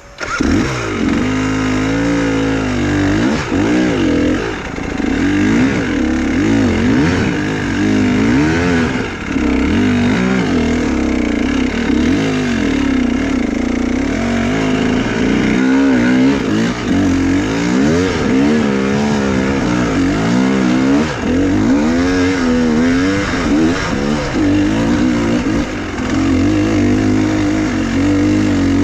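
Dirt-bike engine running under load, revving up and down continuously as the throttle is worked, its pitch rising and falling every second or two.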